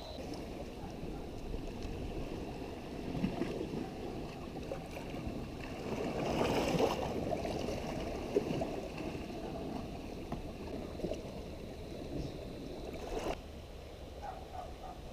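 Water washing and lapping, swelling about halfway through, with a single sharp knock near the end.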